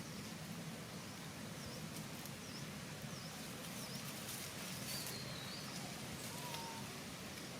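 Small animal or bird chirping: short, high chirps repeating about once a second, with a brief falling whistle about five seconds in, over a steady outdoor background noise.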